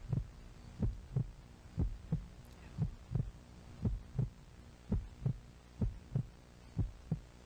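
Heartbeat sound effect: paired low thumps, lub-dub, about once a second, over a low steady hum.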